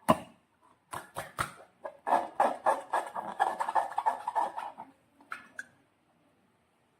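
Slime being squeezed and worked by hand: wet, sticky squelching and crackling, with a few sharp clicks before and after, then it goes quiet for the last second or so.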